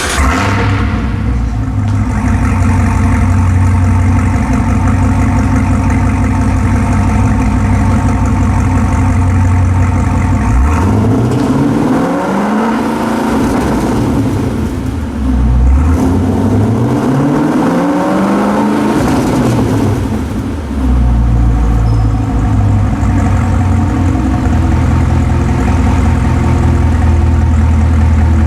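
2017 Cadillac CTS-V's supercharged 6.2-litre V8 through a Stainless Works cat-back exhaust, idling, then revved twice while standing still, each rev climbing for two to three seconds and falling back, then settling to idle again. It echoes in an underground parking garage.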